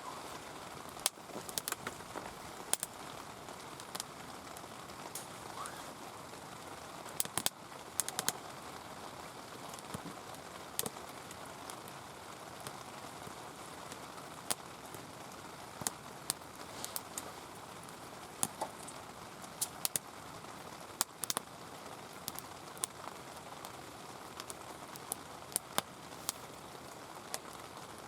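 Steady hiss of heavy rain, with frequent irregular sharp ticks and clicks scattered through it.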